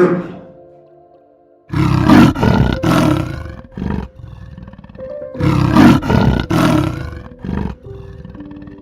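A large wild animal roaring in two series of short, rough pulses a few seconds apart, over steady background music.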